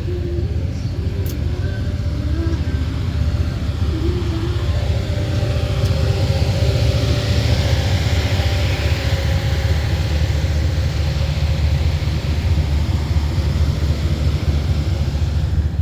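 A car engine running with a loud, steady low rumble.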